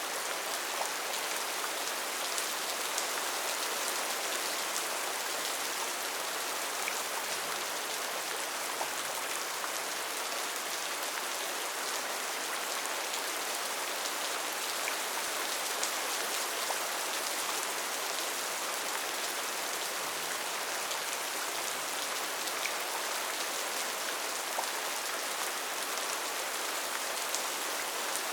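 Steady rain falling on foliage, a dense even hiss with scattered individual drop ticks.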